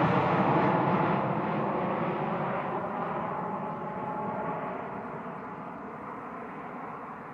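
Boeing 737 MAX 8-200 jet engines (CFM LEAP-1B turbofans) fading as the airliner moves away, the hiss in the high end dying out first and leaving a low rumble.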